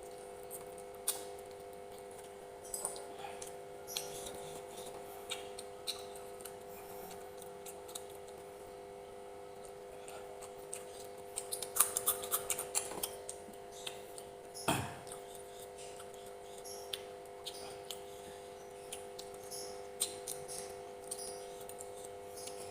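Close-up eating sounds: scattered small clicks and smacks of someone chewing food, with a dense run of them about halfway through and a single louder knock shortly after, over a steady low hum.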